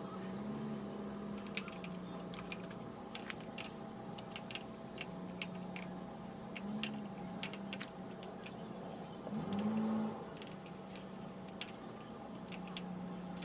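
Irregular light metallic clicks and taps of hand tools and parts being handled, over a steady low hum, with a brief louder swell about nine seconds in.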